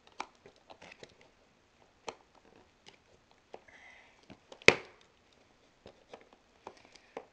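Large copper box staples being pried out of a cardboard shipping box: scattered clicks and scrapes of metal on staple and cardboard, with one sharp snap about four and a half seconds in.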